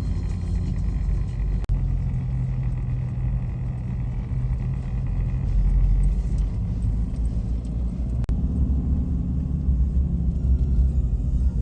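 A steady, low rumble with almost nothing high-pitched in it, broken by two sudden, very short dropouts.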